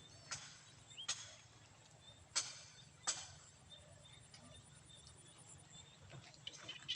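Faint outdoor ambience broken by four sharp taps or clicks in the first three seconds, with faint short high chirps.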